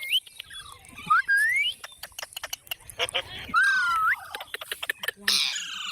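Pet parrot whistling short rising pitch glides, with a run of sharp clicks in between and a harsh squawk near the end.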